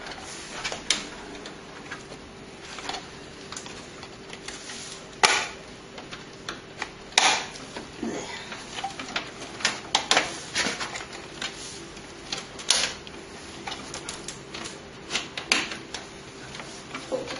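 Irregular clicks, taps and light knocks of hands handling computer parts, cables and connectors, several louder clacks among them, over a faint steady hum.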